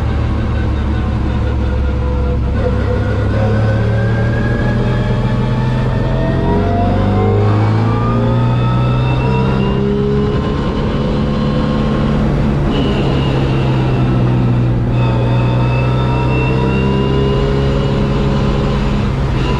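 MGB racing car's engine heard from the cockpit at race speed. Its pitch climbs steadily through the first half, then runs high and nearly level, with a few brief breaks in the second half.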